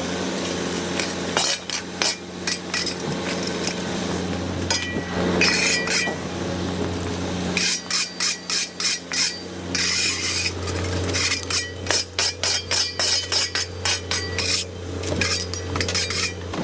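Rear-loader garbage truck's hopper compactor at work over a steady low engine hum, with rubbish cracking and snapping as it is crushed, and runs of rapid crackling in the second half.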